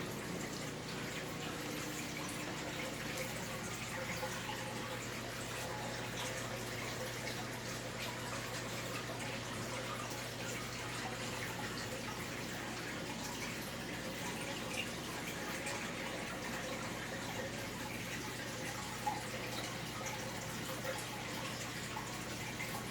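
Steady trickling and splashing of aquarium water over a low, steady hum.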